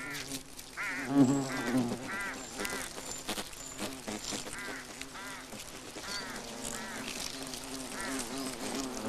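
A colony of hornets buzzing inside a hollow oak trunk: a steady low drone with many wingbeats, and individual buzzes that rise and fall in pitch over and over.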